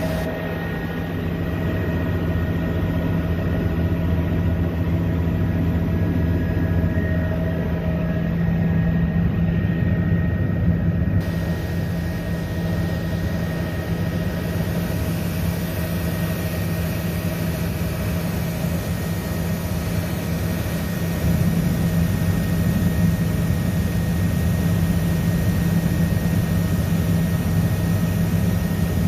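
Helicopter in flight: the steady drone of engine and rotor, with a thin high whine over it.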